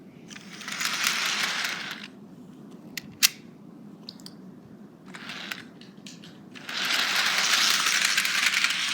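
Bachmann HO scale model train running along the track in two short runs, a rushing rattle of wheels and motor, with a sharp click about three seconds in while it stands.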